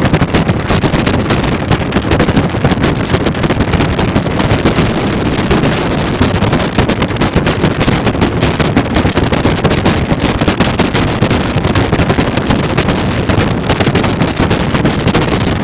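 Wind buffeting the microphone: a loud, steady, rumbling rush with no pauses.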